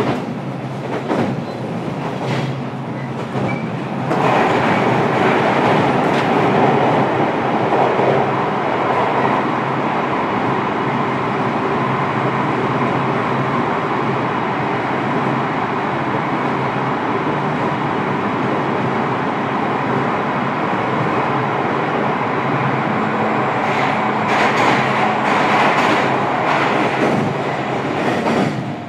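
Running noise heard inside the motor car of a JR Kyushu 817 series electric train under way: wheels on the rails with clicks over rail joints. The noise rises sharply about four seconds in, stays loud and steady, and eases near the end.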